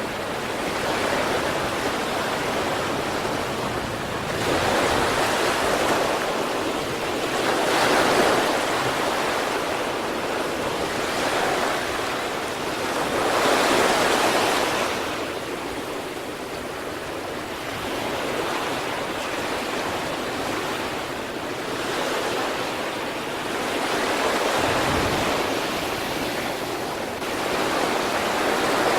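Sea waves breaking on the shore, a continuous rush of surf that swells and eases as each wave comes in, with stronger breakers about 8 and 14 seconds in.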